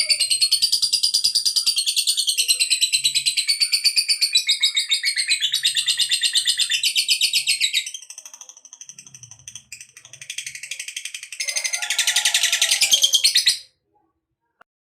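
Lovebird singing the long 'ngekek': a fast, continuous high-pitched chattering trill. It weakens to a softer, broken chatter about 8 seconds in, comes back at full strength near the end, and then stops abruptly.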